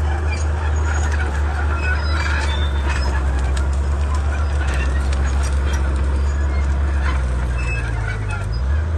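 Komatsu D31P bulldozer's diesel engine running steadily under work, with scattered sharp clicks and cracks over it. The engine note dips and comes back up shortly before the end.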